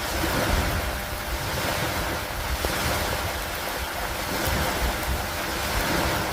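Steady rain falling, an even hiss over a constant low rumble, swelling and easing gently every couple of seconds.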